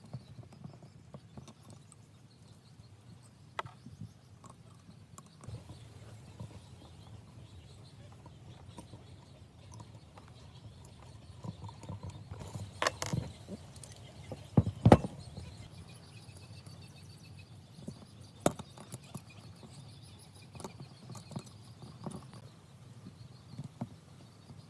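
Irregular clicks and knocks of hand tools and small-engine parts being handled during repair work, with a few louder knocks a little past the middle.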